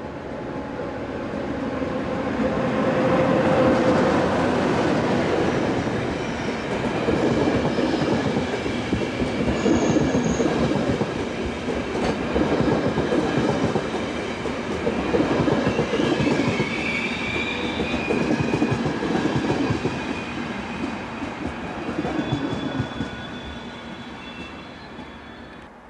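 Locomotive-hauled passenger train passing close by. Its sound swells as the locomotive comes past in the first few seconds. Then the coaches' wheels run over the rails with a steady clatter and brief high wheel squeals about two-thirds through, and it fades near the end.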